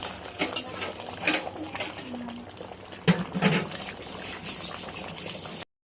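Chicken korma gravy simmering thick in the pot, bubbling and spitting with irregular crackling pops. The sound cuts off abruptly near the end.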